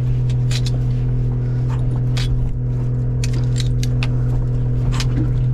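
A steady low machine hum, with scattered light clicks and scrapes of handling over it.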